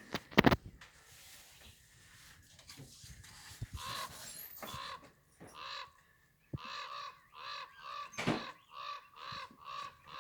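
A bird squawking in a quick series of short, harsh calls, about two or three a second through the second half, after a sharp knock near the start.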